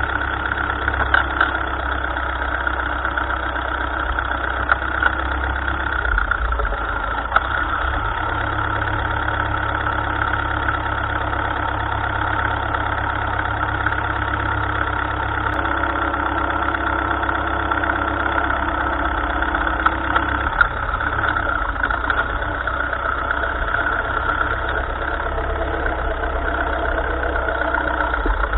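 Engine of a 1955 Ferguson tractor running steadily at a low, even speed, with a few brief sharp knocks over it.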